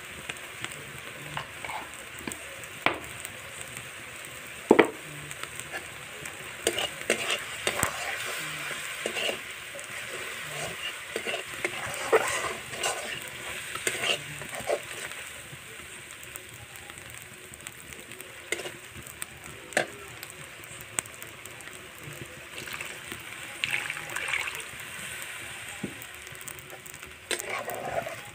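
Spice paste sizzling in hot oil in a wok, with a metal spatula scraping and knocking against the pan as it is stirred: the masala being fried down for a curry. The sizzle is steady, broken by irregular sharp clinks and scrapes, a few much louder than the rest.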